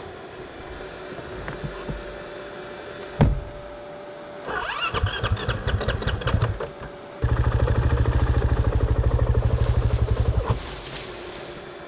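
Dirt bike engine being started: a sharp knock, then a few seconds of uneven sputtering, then about three seconds of loud, even, rapid pulsing that cuts off suddenly.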